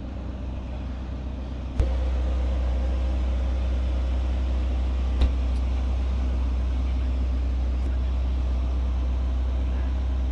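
Steady low rumble of a car engine idling. A sharp click comes about two seconds in, after which the rumble is louder and holds steady, with another small click later on.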